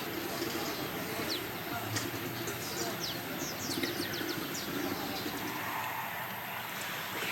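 Small birds chirping: many quick, high, downward-sliding chirps scattered over a steady low ambient background.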